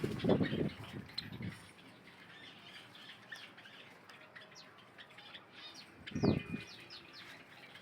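Java sparrows chirping in short, high notes throughout, with bursts of wing flapping in the first second or so and again about six seconds in.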